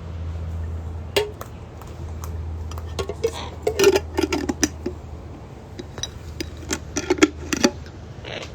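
Sulphur-crested cockatoos cracking and nibbling nuts with their beaks: irregular sharp clicks and cracks, bunched a few seconds in and again near the end, over a low steady hum.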